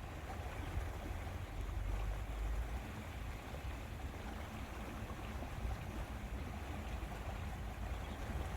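Steady lakeside ambience: small waves lapping at the water's edge, with a low wind rumble on the microphone.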